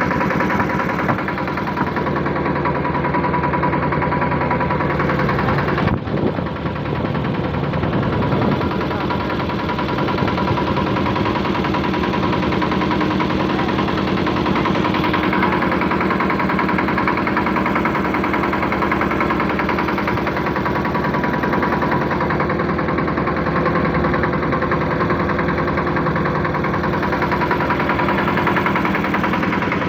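Boat engine running steadily with a constant drone, with one brief click about six seconds in.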